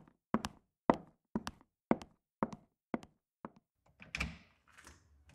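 Footsteps walking at a steady pace, about two steps a second, followed near the end by a door opening.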